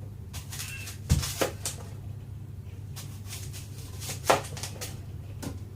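A kitchen knife knocking and clicking against a cutting board as an apple is sliced thin: a few scattered knocks, a duller thud about a second in and the loudest knock a little past four seconds, over a steady low hum.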